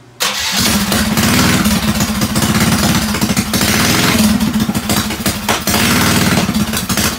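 Mini bike's small engine firing on choke from a cold start and running for about seven seconds with a fast, even pulse, then dying away near the end. It is running with the fuel still turned off.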